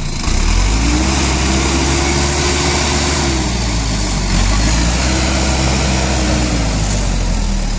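Heavy diesel engine of a tractor or backhoe loader running, its pitch rising, holding and falling back twice as it is revved.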